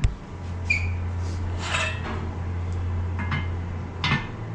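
A few short knocks and clinks of hard objects being handled, over a low steady hum that stops near the end.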